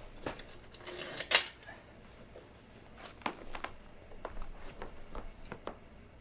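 A fluorescent shop light's power cord being plugged into an outlet, with scattered handling clicks and knocks and one sharp, loud click about a second and a half in.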